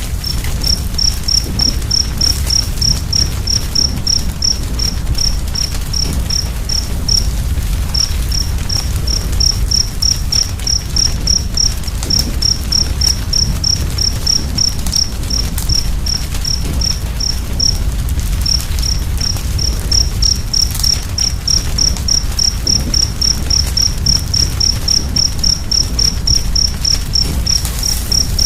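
A cricket chirping in a steady rhythm, about three high chirps a second with a few brief pauses, over the low steady rumble of a burning fire.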